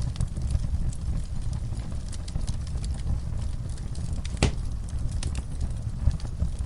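Wood fire in a fireplace crackling, with scattered small pops over a steady low rumble of the flames and one sharp louder pop about four and a half seconds in.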